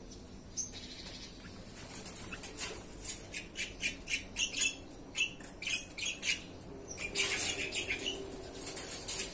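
Birds bathing and jostling at the water: quick runs of short, sharp squawks and wing-fluttering, several a second, starting about two seconds in and busiest near the end.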